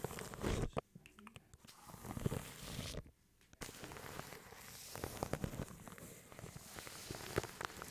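Close-miked brushing and scratching on a microphone wrapped in plastic wrap, crinkly swishes layered with fast wet mouth clicks. The sound drops out briefly about three seconds in, then gives way to dense sharp clicks.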